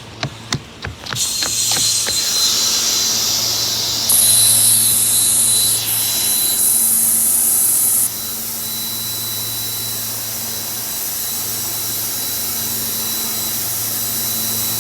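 SEPTA Silverliner electric train running with a steady electric hum, hiss and a thin high whine, louder with extra hiss for a few seconds in the middle. A run of sharp clicks comes just before the hum begins.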